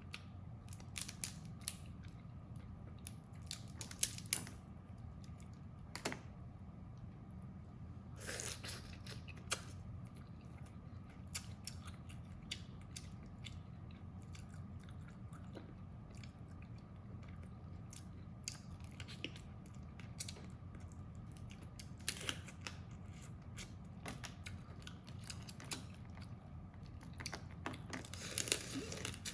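Close-up eating sounds of crab: shells cracking and snapping under the teeth, with chewing in between. The sharp cracks come irregularly, several close together about 8 and 28 seconds in, over a steady low hum.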